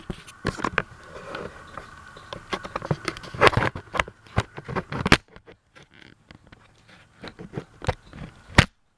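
Irregular clicks, knocks and scrapes of something being handled and set in place, loudest in a cluster near the middle and once more shortly before the end. A faint steady hum runs under the first few seconds.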